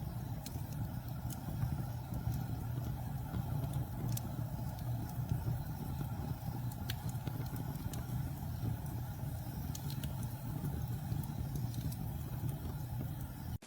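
Wood campfire burning: a steady low rumble with scattered sharp crackles and pops.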